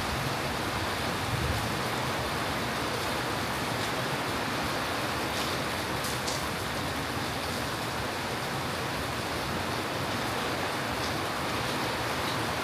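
Heavy rain falling steadily, a dense even hiss of rain on hard surfaces and water, with a few light drip ticks about halfway through and again near the end.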